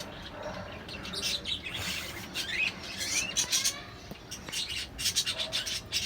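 Pet parakeet chirping in several bouts of quick, high calls.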